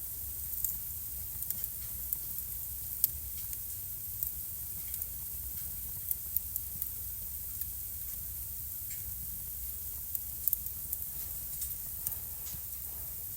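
Wood fire burning in a fireplace and crackling: irregular sharp pops and snaps, several a second at times, over a steady hiss and low rumble of the flames.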